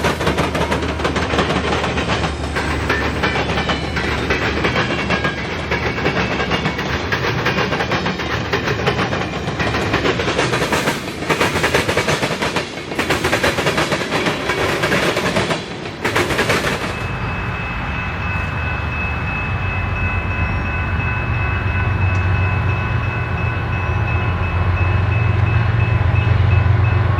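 Train passing close by, its wheels rumbling and clattering over the rails for about the first two-thirds. The clatter then drops away, leaving thin steady high squeals and a low engine rumble that grows louder toward the end.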